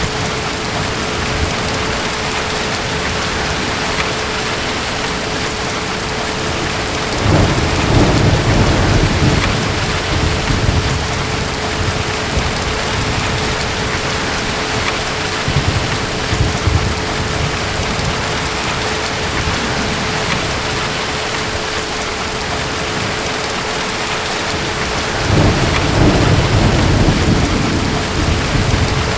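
Steady heavy rain, with distant thunder rumbling twice, about seven seconds in and again near the end, and a weaker rumble around the middle.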